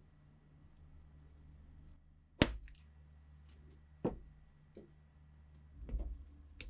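A few sharp knocks over a low hum: a loud one about two and a half seconds in, another about four seconds in, a faint tap, and a duller knock near the end.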